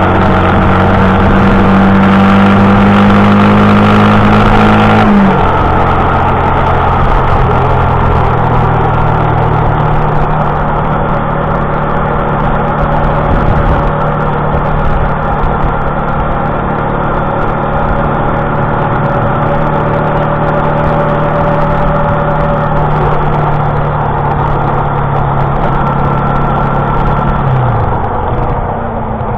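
Motorcycle engine running while riding, its pitch climbing slowly and then dropping sharply about five seconds in, as at a gear change. It then holds a long, slow, steady climb and drops again near the end, with wind rush throughout.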